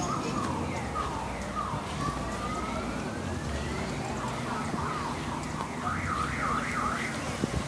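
Electronic siren sounding through the ride: repeated falling sweeps, then a long rising glide, then fast back-and-forth yelping sweeps near the end. A steady low motorcycle engine rumble runs underneath.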